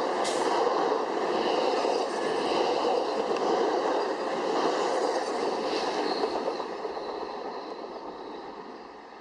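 Amtrak passenger train passing at speed with a steady rush of wheels on rail, which fades away over the last few seconds as the train recedes.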